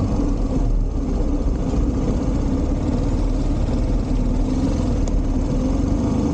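Motorcycle engine running steadily, a constant low rumble with no change in pitch.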